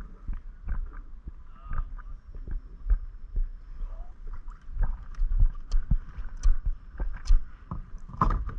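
Kayak paddling close by: paddle strokes splashing in the water, with irregular knocks and clatters, heaviest in the second half.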